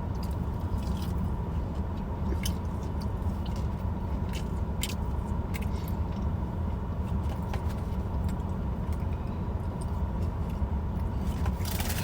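Close-mic chewing and biting into fried hush puppies, with scattered short crunches over a steady low rumble.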